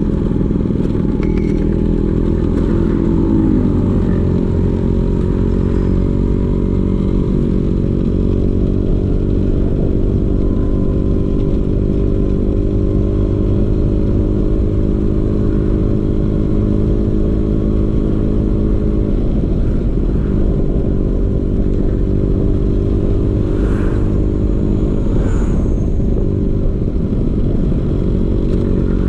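Vespa PX 150's single-cylinder two-stroke engine running through a DRC Victory racing exhaust, mostly steady, with a brief rise and fall in revs a few seconds in.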